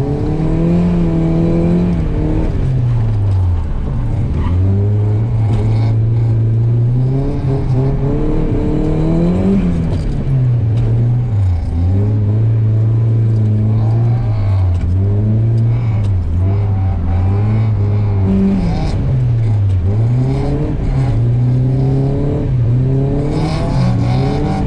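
Nissan S15 Silvia's engine heard from inside the cabin while drifting: it revs up and holds high, steady revs through each slide, with the revs dropping sharply and climbing again about five times between corners.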